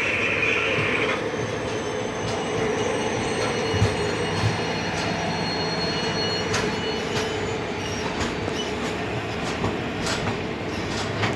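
A passenger train rolling slowly past over the rails: a steady rumble of coaches, with a high wheel squeal that stops about a second in. Scattered clanks and clicks from the wheels over rail joints come more often near the end.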